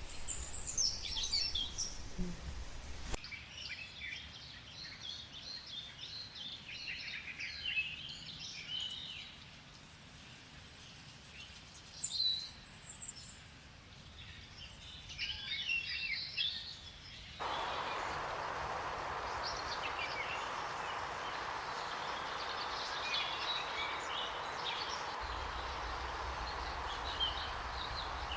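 Several forest birds calling and chirping in a jungle soundscape, with short, high calls coming in bursts. The background changes abruptly twice, the second time about two-thirds of the way in, to a steady hiss under the birdsong.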